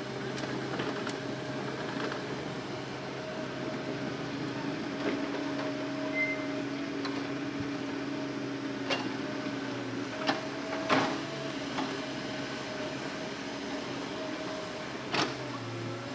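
Hitachi Zaxis excavator engine and hydraulics running under load in a steady hum that shifts a little in pitch, with a few sharp knocks as it works, the loudest about eleven seconds in.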